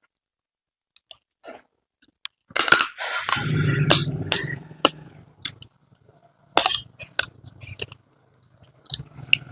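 Close-up chewing and crunching of crisp fried food, with sharp crunches starting about two and a half seconds in. A loud low droning hum comes in about three seconds in and fades, then returns near the end.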